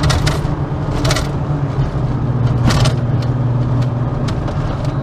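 Volkswagen Golf GTI Mk1's inline-four engine running steadily while driving, heard from inside the cabin. Three short bursts of noise come in the first three seconds.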